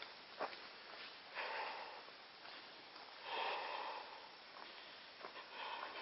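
A person breathing hard in three short, noisy huffs, with a sharp click about half a second in.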